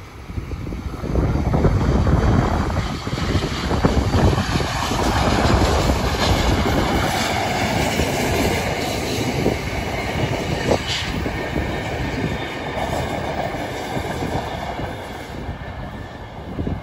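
Commuter train passing close by: a steady rumble of wheels on the rails with some clickety-clack, a few sharp clicks and a brief high wheel squeak past the middle.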